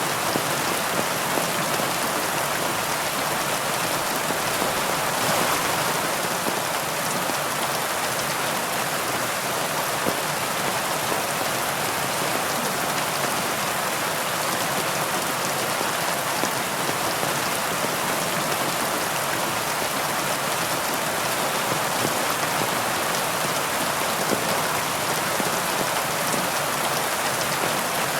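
Heavy rain falling steadily, an even hiss of many drops that does not change.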